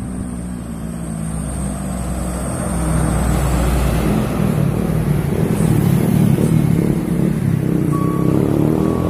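Truck engine running loud, swelling over the first three seconds and then holding steady.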